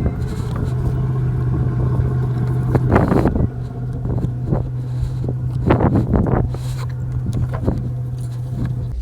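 Houseboat's motor running steadily with a low hum, with a few short noisy bursts over it.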